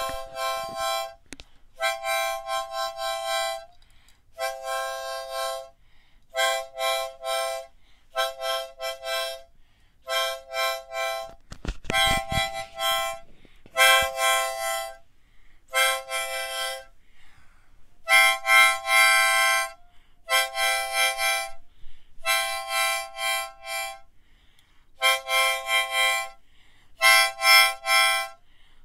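Solo harmonica playing a slow tune in short chordal phrases, each lasting a second or two with brief pauses between them. There is a short low thump about halfway through.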